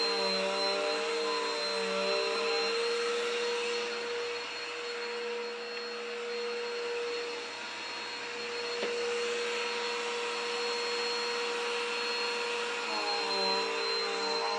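Vacuum cleaner running with a steady whine. Its tone wavers near the start and again near the end, and it runs slightly quieter in the middle stretch.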